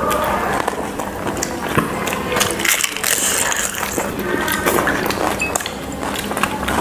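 Close-miked eating sounds from people chewing fried chicken lollipops and momos by hand: a dense run of small clicks and smacks.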